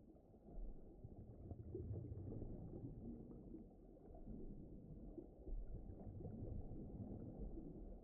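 Soft, low, muffled underwater ocean ambience: a wavering rumble with no distinct events.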